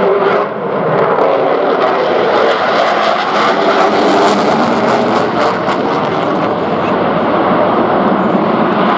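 Jet noise from a Eurofighter Typhoon fighter's twin EJ200 turbofan engines during a display pass, loud and steady.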